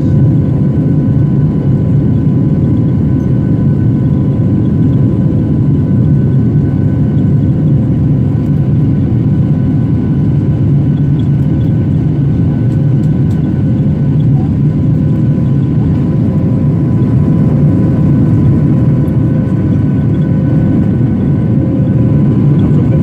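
Boeing 737-800's CFM56 jet engines heard from inside the passenger cabin: a steady, even roar with a faint whine of fan tones above it.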